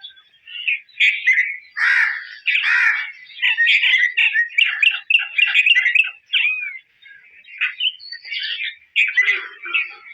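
A bird singing a long, varied run of quick chirps and whistled notes, with a couple of brief pauses.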